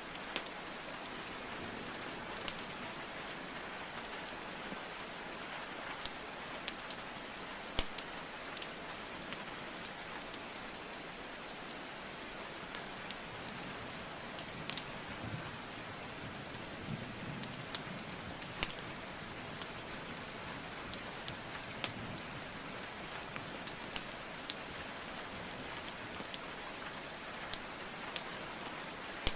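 Steady rainfall hiss with irregular sharp pops and crackles from burning wood in a fireplace, a click every second or two.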